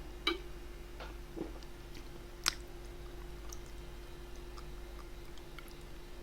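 Faint chewing of food, with a few short sharp clicks, the sharpest about two and a half seconds in, over a steady low hum.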